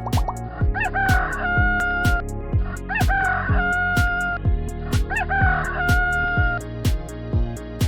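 Rooster crowing three times, each crow rising sharply then held long on one pitch, over background music with a steady beat.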